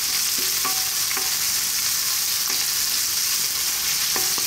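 Sliced onion, garlic and ginger sizzling in hot oil in a wok on high heat: a steady hiss. A wooden spoon stirring them gives a few faint knocks against the pan.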